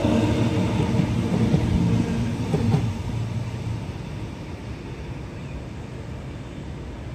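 A passing train's rumble and running noise, with several steady hum tones, fading away about three seconds in and leaving a quieter steady background noise.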